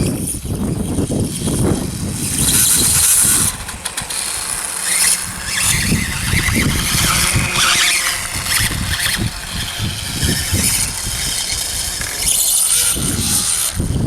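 Battery-powered RC dirt bike's electric motor whining up and down in pitch as it rides, with tyre and ground noise.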